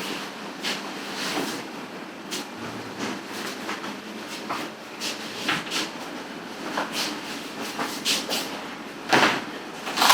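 Scattered short clatters and rustles of things being handled, with a louder knock about nine seconds in and another at the end.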